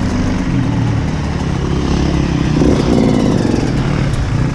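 Off-road motorcycle engine running under load, the revs rising briefly about halfway through.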